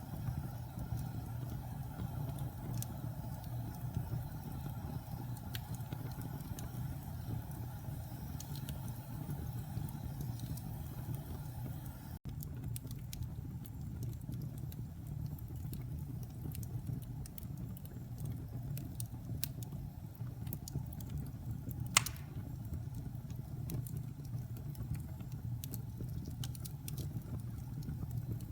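Fire burning in a fireplace: a steady low rumble with scattered crackles and one loud pop about twenty-two seconds in.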